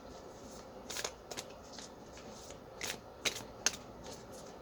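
A deck of tarot cards being shuffled by hand: short, crisp flicks and slides of the cards at irregular intervals.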